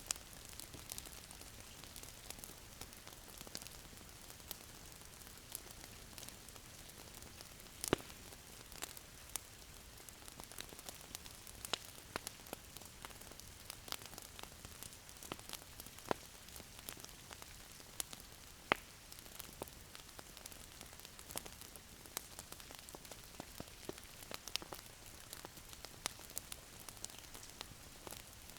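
Wood fire crackling in a fireplace: irregular sharp pops and ticks over a steady soft hiss, with a few louder pops, the strongest about eight seconds in and just before the nineteenth second.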